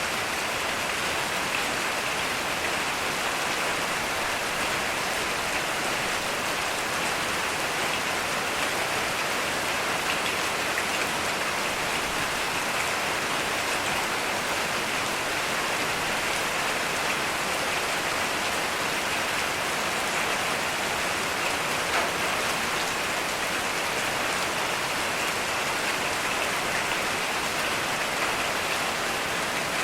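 Heavy rain falling steadily, an even hiss of drops on surfaces with no thunder heard.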